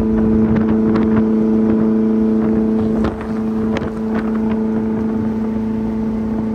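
Steady drone of a 1994 Mazda Miata's 1.8-litre four-cylinder engine cruising at highway speed, heard from inside the cabin with wind and road rush. It dips slightly about three seconds in.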